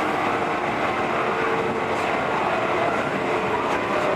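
JR 115-series electric multiple unit running along the line, heard from inside the car: a steady rumble of wheels on the rails with a faint, even hum from the drive.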